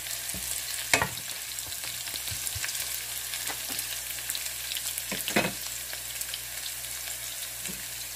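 Sliced ginger and chopped garlic sizzling in hot oil in a pan, with a steady hiss. A wooden spatula stirs them, knocking against the pan about a second in and again a little after the middle.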